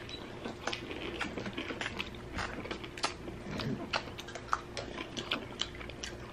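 Close-up eating: a bite into a crispy breaded chicken tender, then chewing it, heard as many small irregular crunches and wet mouth clicks.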